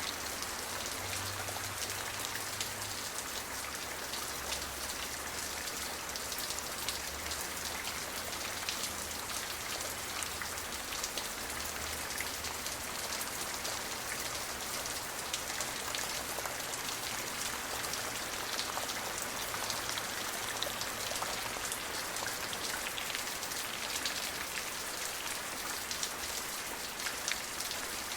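Steady rain falling, an even hiss with many small drop ticks pattering on a surface.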